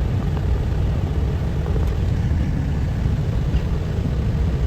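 Steady low rumble of a vehicle on the move, with the sound heaped up low and no clear pitch.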